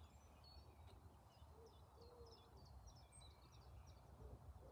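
Near silence with faint distant birdsong: a few low, soft hooting calls repeated and light high chirps of small birds.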